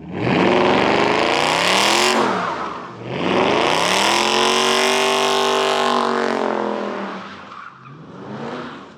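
Muscle car engine revving hard with tyres squealing as the car is spun: one rising rev that drops off about two seconds in, then a second rev held for a few seconds before fading away.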